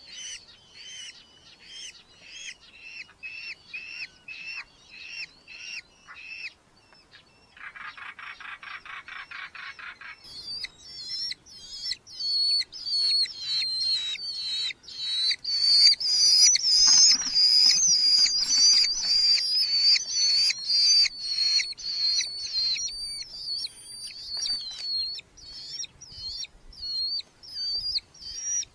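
Red-footed falcons calling from the nest box: a long series of short, shrill, repeated calls, several a second. A faster, buzzier chatter comes in about eight seconds in. After that the calls grow louder and denser, peaking in the middle and then thinning out.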